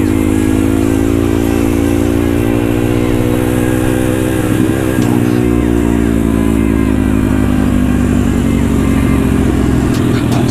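Pit bike's small single-cylinder engine running steadily at low to mid revs, its pitch rising and falling slightly.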